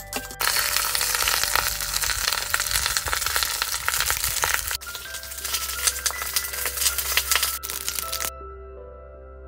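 Food frying in hot oil in a pan, a steady sizzle full of crackling pops, which stops abruptly near the end. Background music plays underneath.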